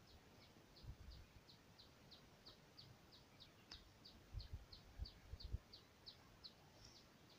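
Faint bird call: a long, even run of short high down-slurred chirps, about three a second, stopping about six and a half seconds in. A few low thumps come between about four and five and a half seconds.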